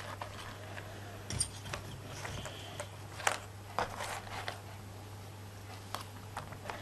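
Scattered light clicks and taps of small craft pieces being handled and set down on a work surface, over a steady low hum.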